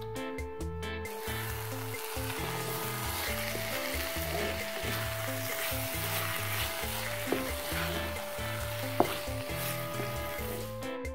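A thick banana-flower, potato and dal mixture sizzling and frying in a wok while a spatula stirs it. The sizzle starts about a second in and stops just before the end. Two sharp clicks of the spatula against the pan come in the second half.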